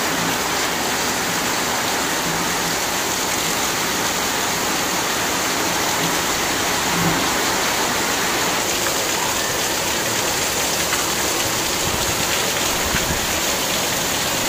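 Heavy rain pouring steadily: a dense, even hiss of drops striking leaves, walls and rooftops.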